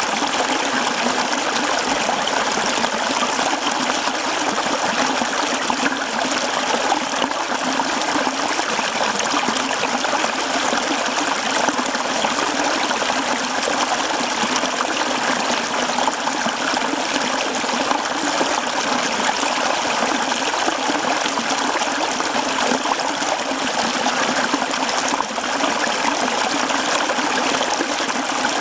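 Mountain stream running over rocks, a steady trickling and splashing rush of water.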